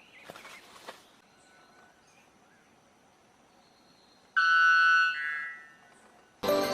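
Male white bellbird giving one loud two-part call: a ringing first note, then a fainter second note that fades out. This is its mating call to attract a female. Music starts near the end.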